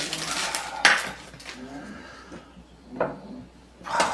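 Kitchen dishes and utensils clattering: a sharp knock about a second in, with scrapes and a couple more short clatters near the end.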